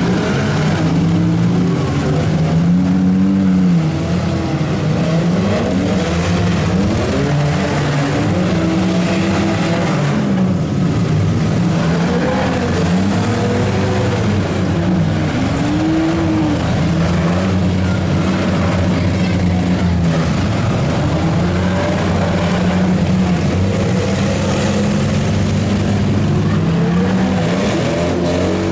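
Several derby vans, trucks and SUVs running at once, their engines revving up and down over one another without pause.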